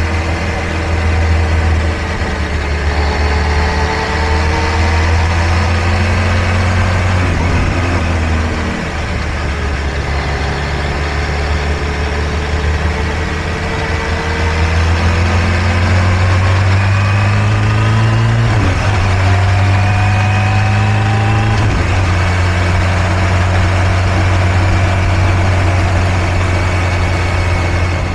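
Kawasaki Ninja H2 SX's supercharged inline-four engine running at low speed through tight bends, its pitch easing up and down a few times as the throttle is worked.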